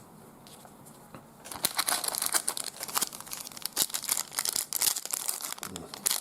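Quiet for about a second and a half, then a trading card pack's wrapper being crinkled and torn open, a dense, rapid crackling.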